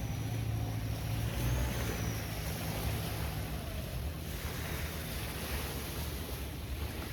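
Steady low rumble with rushing wind and sea noise, stronger in the first couple of seconds and then easing to an even hiss.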